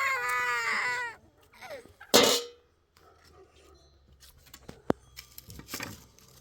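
A rooster's crow ending on a falling pitch in the first second, then a short loud noisy burst about two seconds in, followed by faint scattered clicks and rustling.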